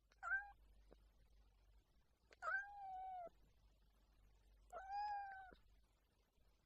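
A kitten meowing three times: one short meow, then two longer, steady meows.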